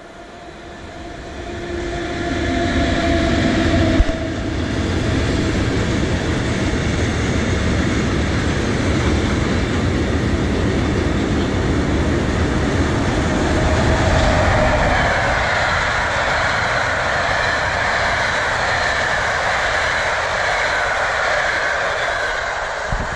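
Trains passing close by on the line, first a freight train of covered wagons and then a passenger coach. The rumble and hiss of wheels on rails builds over the first two seconds and then holds steady and loud, with a sharp knock about four seconds in and some high ringing tones from the wheels.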